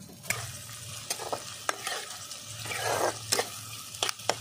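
Chopped onion, ginger, garlic, chilli and tomato sizzling in hot oil in a kadai, freshly added. A metal spatula stirs them, scraping and clinking sharply against the pan several times.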